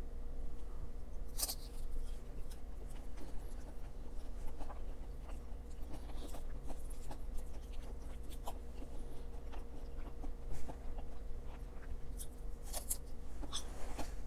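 Close-miked eating of a fried dumpling: wet chewing, with many small mouth clicks and smacks and a few sharper bites, about a second and a half in and near the end. A steady low electrical hum runs underneath.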